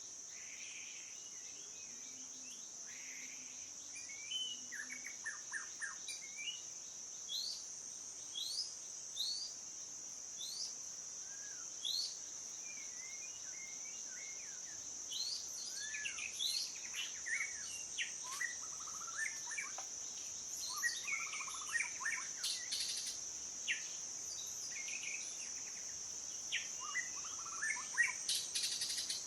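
Songbirds chirping and whistling: many short notes sweeping up and down, coming thicker in the second half. Behind them runs a steady high-pitched insect chorus.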